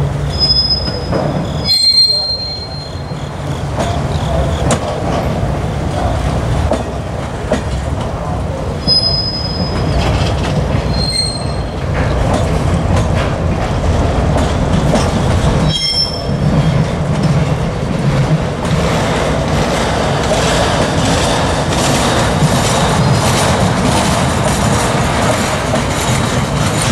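Freight train's rack flatcars rolling past close by: a steady rumble and clatter of steel wheels on the rails, with a few short high-pitched wheel squeals in the first half.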